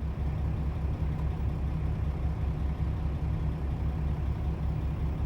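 Heavy diesel truck engine idling: a steady, low, evenly pulsing throb.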